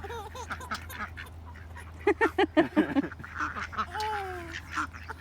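Ducks quacking, with a run of quick, loud quacks about two seconds in.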